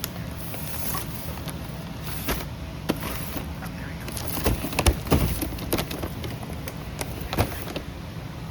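A few sharp knocks and clunks over steady background noise, most of them bunched together around the middle, like a boxed item being handled.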